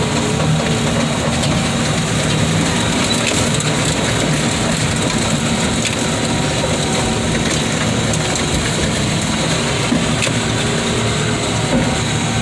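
An old car body being crushed by heavy equipment: continuous crunching and creaking of metal over a steadily running diesel engine.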